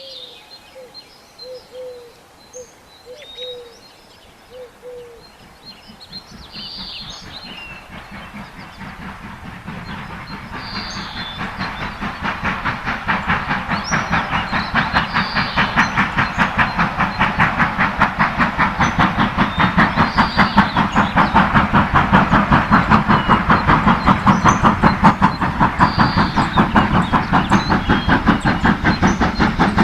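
Birds calling, then a train approaching and growing steadily louder, its sound pulsing in a regular rhythm of about four to five beats a second once it is close.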